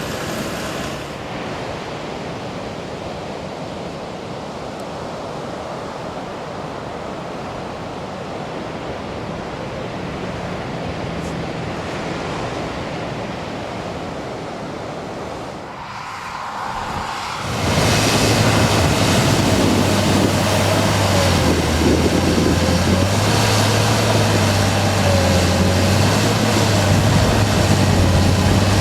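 Ocean surf and wind on the microphone, an even rushing noise. About 17 seconds in it gives way to a louder, steady mechanical engine hum with a low drone and a wavering whine above it.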